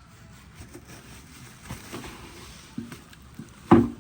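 Cardboard and plastic packaging being handled while a parcel is opened: faint rustles and small clicks, then a single loud thump near the end.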